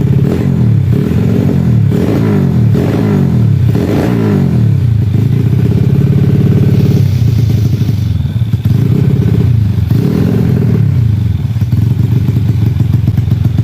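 A 116 cc underbone motorcycle's horizontal single-cylinder engine being revved in repeated throttle blips: about five quick rises and falls in pitch, a longer held rev around halfway, then several more blips.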